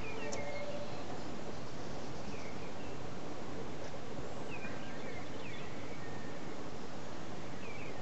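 Outdoor garden ambience: a steady background hiss with a few short, high bird chirps scattered every couple of seconds.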